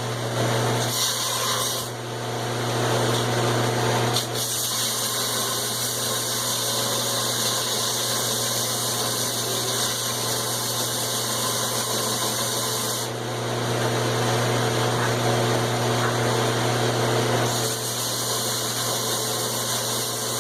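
Belt grinder running with a steady motor hum while a 1045 steel hammer head is ground against the abrasive belt. The grinding hiss swells and eases as the steel is pressed on and moved about, loudest early on and again about two-thirds of the way through.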